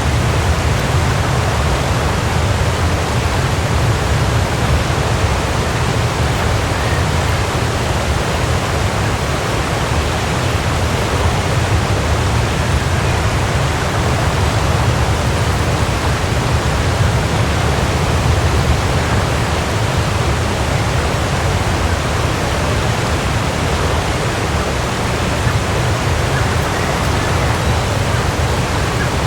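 Waterfall: a steady, loud rush of falling water with a deep low rumble, unchanging throughout.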